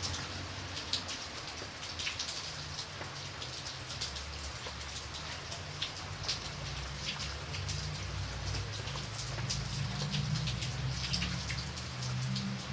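Steady rain with individual drops pattering on a surface, many close, sharp drop ticks over a constant hiss. A low rumble runs underneath and swells near the end.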